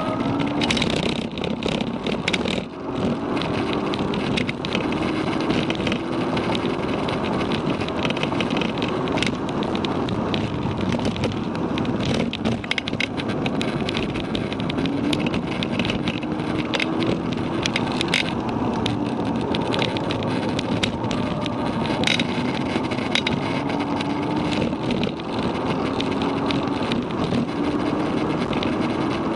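Volkswagen Mk6 Golf GTI's APR Stage 1-tuned turbocharged four-cylinder engine heard from inside the cabin under hard driving on track, its pitch climbing slowly several times as it pulls through the gears, over steady road and tyre noise.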